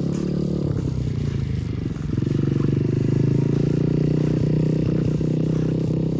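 110cc Trailmaster TM15 dirt bike engine running steadily, getting louder about two seconds in.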